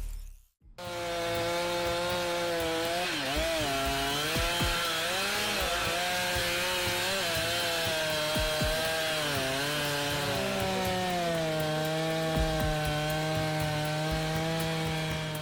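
Chainsaw running at high speed while cutting wood, its engine pitch dipping and recovering again and again as the chain loads up in the cut. It starts about a second in, after a brief silence.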